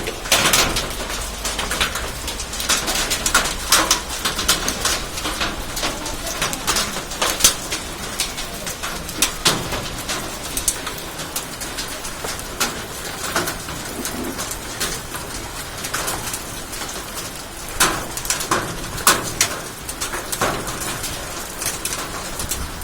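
Hailstones and heavy rain hitting hard surfaces: a steady patter broken by many irregular sharp clacks of individual stones, with a bird cooing at times.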